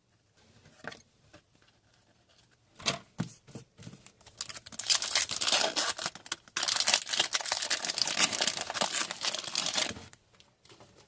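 Foil wrapper of a hockey card pack being torn open and crinkled. A few light handling clicks come first, then about five seconds of continuous tearing and crinkling, broken briefly in the middle.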